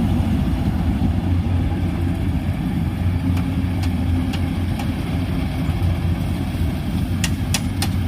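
Tractor diesel engine running steadily at a constant speed. A few sharp clicks come near the end.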